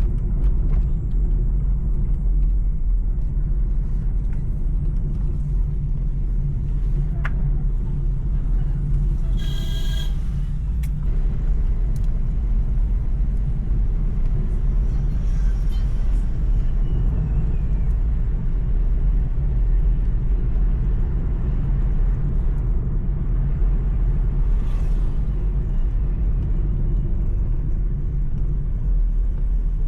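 Steady low rumble of a vehicle on the move, with a brief pitched tone about ten seconds in.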